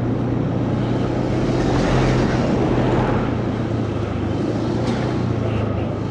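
Motorcycle engine running at a steady cruise, with wind and road noise. About two seconds in, a louder rush of noise swells and fades.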